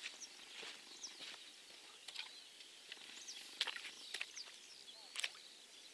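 Small birds chirping in short, quick notes, with a few sharp clicks in between, the loudest about midway and near the end.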